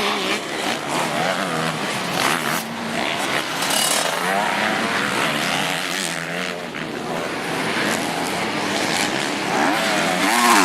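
Several motocross bikes' engines revving, with overlapping engine notes whose pitch keeps rising and falling as the riders open and close the throttle.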